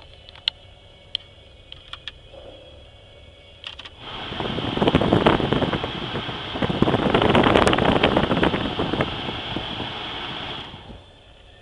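A 2003 Chevy Impala's 3.4 L V6 running low and steady, with a few sharp clicks. About four seconds in it turns loud and ragged in two surges for some seven seconds, then drops back suddenly.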